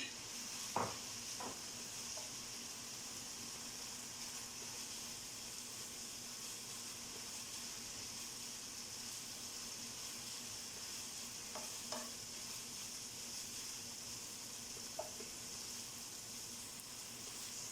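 Minced meat with ginger and garlic frying in oil in a pot, giving a steady sizzle. A few light clicks of a utensil against the pot come through.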